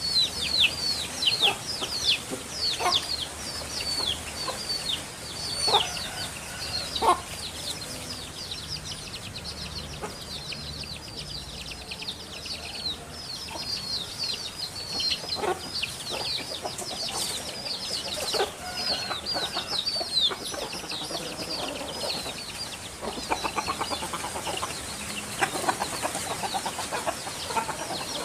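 Many small birds chirping busily, a dense run of quick downward-sliding chirps overlapping one another, with occasional lower calls mixed in.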